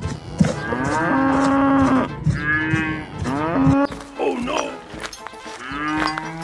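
Cattle mooing repeatedly: a series of long drawn-out moos, each lasting a second or more, with a shorter one near the middle.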